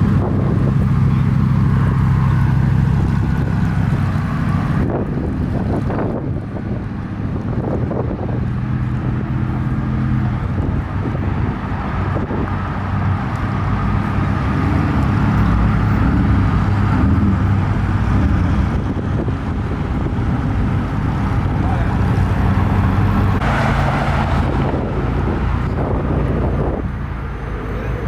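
Supercar engines running at low speed as cars drive slowly in and out, a steady low engine note that shifts as the cars move.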